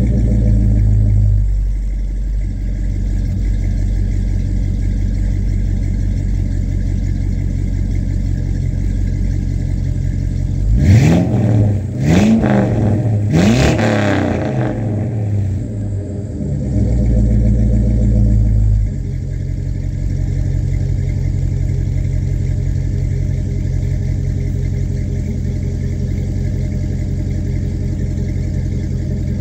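Stock 5.3 LS V8 in a C10 pickup, breathing through a 2.5-inch exhaust with Flowmaster mufflers, idling after a cold start. About eleven seconds in, the throttle is blipped three times in quick succession. The idle then holds a little higher and settles lower at about nineteen seconds.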